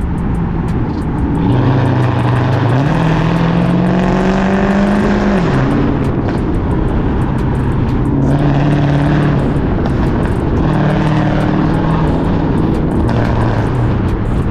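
Cammed, catless, straight-piped Chrysler 300C Hemi V8 exhaust under way: the engine pulls with rising revs for about four seconds, drops off sharply, then pulls again in shorter, steadier spells.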